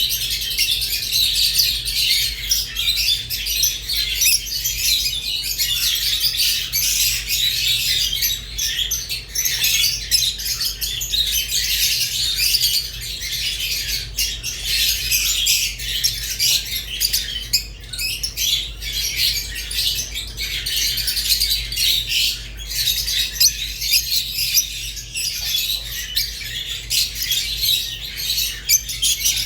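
Rosy-faced and Fischer's lovebirds chirping and chattering without pause, a dense stream of high-pitched twitters. A steady low hum runs underneath.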